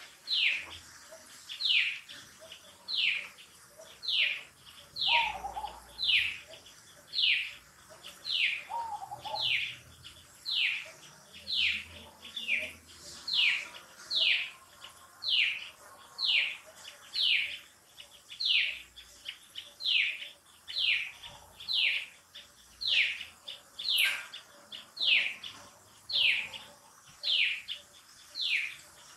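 A bird calling over and over: a short falling whistled note repeated evenly about one and a half times a second, with a few fainter, lower calls now and then.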